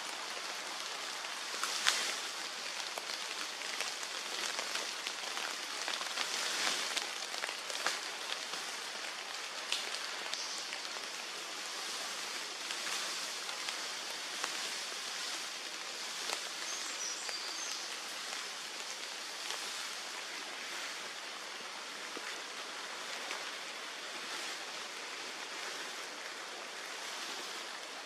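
Woodland outdoor ambience: a steady even hiss, like light rain or wind through the trees, with scattered small ticks and snaps, a few of them stronger in the first ten seconds.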